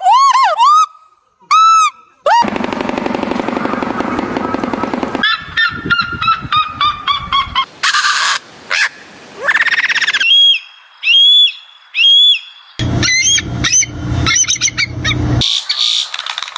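A string of different bird calls played one after another, each block cut off abruptly and replaced by another kind of call every two to three seconds; some are rapid repeated whistled notes, others longer, harsher calls.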